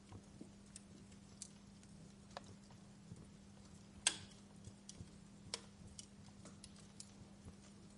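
Wood fire crackling: irregular sharp pops and snaps, the loudest about four seconds in, over a faint hiss and a steady low hum.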